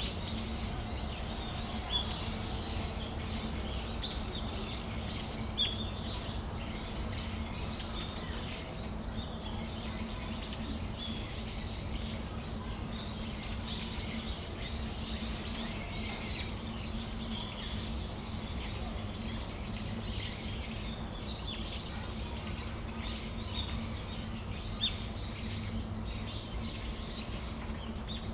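Brown-eared bulbuls calling, a continuous chatter of many short high chirps and shrill calls, with a few louder single calls standing out. A steady low hum runs underneath.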